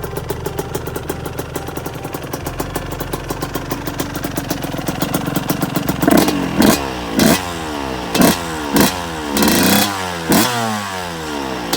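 1996 Suzuki RM125's two-stroke single-cylinder engine, freshly rebuilt with a new Wiseco top and bottom end, idling steadily. From about halfway through it is blipped about seven times in quick succession, each rev rising sharply and falling back.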